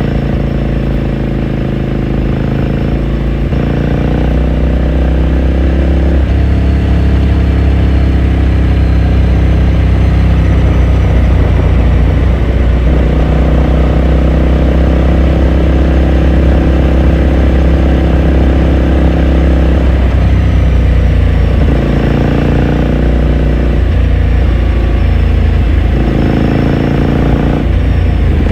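2018 Ducati Scrambler Sixty2's 399 cc air-cooled L-twin engine and exhaust heard from onboard while riding. The engine note holds for stretches and steps up and down in pitch several times.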